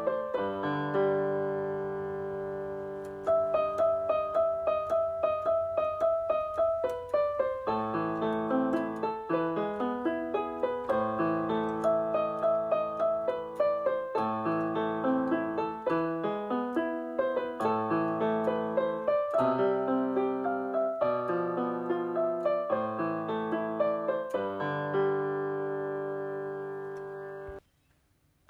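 Background piano music: quick repeated notes over held chords, ending abruptly near the end with a brief gap.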